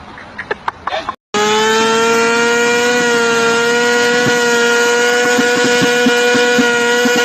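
Motorcycle engine running at high, steady revs, its whine rising slightly and then holding steady; it starts abruptly about a second in after a brief gap.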